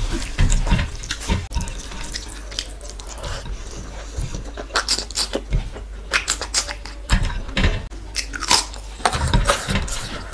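Close-miked eating sounds: wet chewing and lip smacking, with a scatter of short sticky clicks as rice and curry are mixed by hand on the plate.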